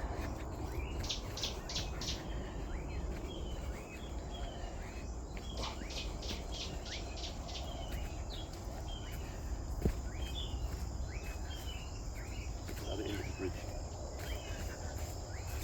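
Forest animal chorus: a steady run of short, falling chirps about one a second, with bursts of rapid clicking pulses now and then, over a low rumble. A single sharp click about ten seconds in.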